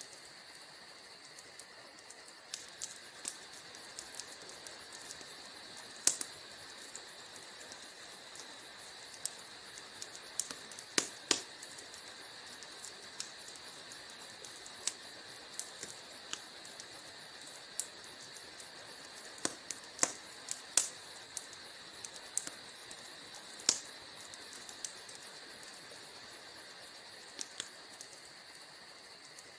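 Wood fire crackling in a fireplace: irregular sharp pops and snaps over a steady soft hiss, with a few louder pops scattered through.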